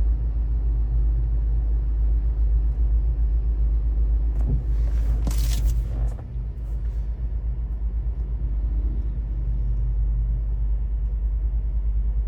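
Car engine and road rumble heard from inside the cabin while driving, a deep steady drone, with a brief hissing noise about five seconds in.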